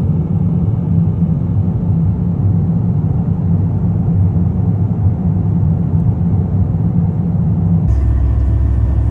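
Steady low rumble of an airliner cabin in flight. Shortly before the end it switches abruptly to a different, deeper steady rumble.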